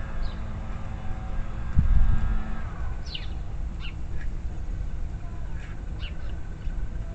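Small songbirds chirping in short, high, falling notes several times from about three seconds in, over a low steady rumble. A steady humming tone is there at first and stops about two and a half seconds in.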